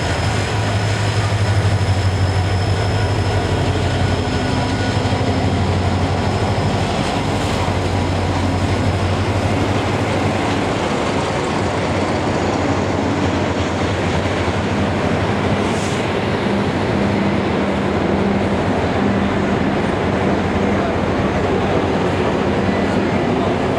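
A train running: steady locomotive engine drone under a continuous rolling noise, with no break through the whole stretch.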